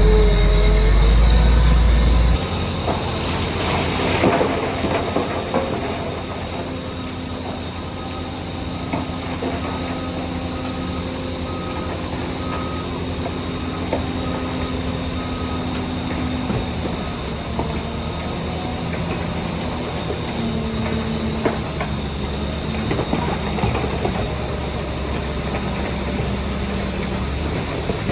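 Heavy diesel earthmoving machinery running, with scattered metallic clanks and rattles; a deep rumble is loudest for the first two seconds, then the machine runs on steadily.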